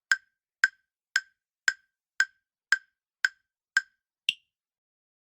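Quiz countdown timer sound effect: sharp ticks about two a second, nine in all, the last one higher in pitch, a little past four seconds in.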